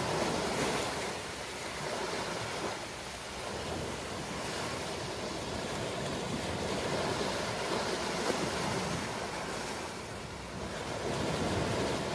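Ocean waves breaking and washing on a shore, a continuous surf noise that swells and eases every few seconds.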